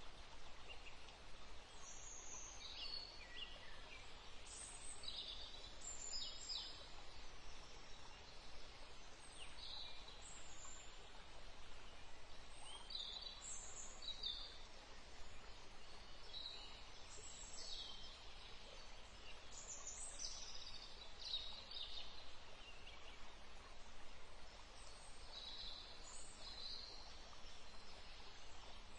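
Small birds calling: many short, high chirps and trills, one every second or two, over a faint steady hiss.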